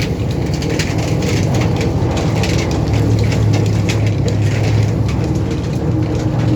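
A boat engine running at a steady hum, with water splashing and crackling against the boat.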